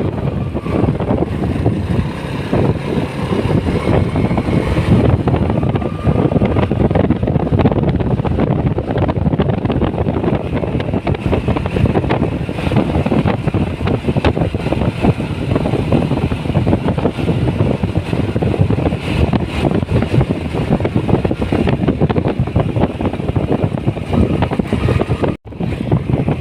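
Wind buffeting the microphone of a moving motorcycle, with the motorcycle's engine running underneath, a loud, steady rumble. It drops out for a moment near the end.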